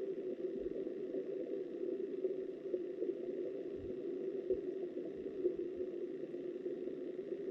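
Flowing river water heard through an underwater camera: a steady, muffled rush with a few soft low thumps.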